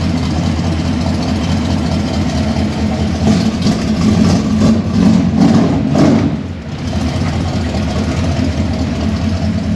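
1972 Chevy C20's 400-cubic-inch V8 idling steadily just after starting on a new wiring harness and ignition switch, with the engine getting louder for a few seconds around the middle as it is revved a little.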